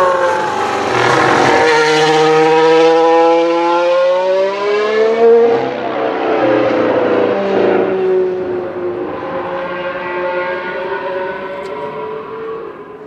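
Formula 1 car's turbocharged V6 engine running on track, its pitch falling, then climbing and shifting as it goes through the gears, fading away near the end.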